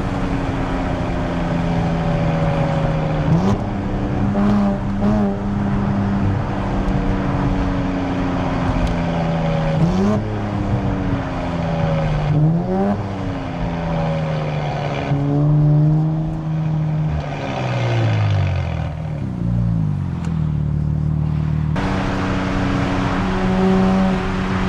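Nissan Z Nismo's twin-turbo V6 sounding through its Nismo Track exhaust, the engine note rising and falling under throttle. There are two quick upward sweeps about ten and twelve seconds in, then a long falling drop in pitch, and the note changes abruptly near the end.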